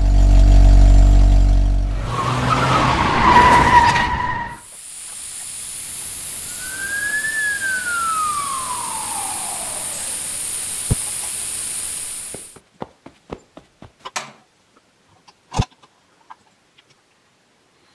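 A string of toy-vehicle sound effects: a low horn-like tone for about two seconds, then a harsh screech. After that comes a long hiss with a whistle that rises and falls away, stopping suddenly about twelve seconds in, and a few scattered clicks follow.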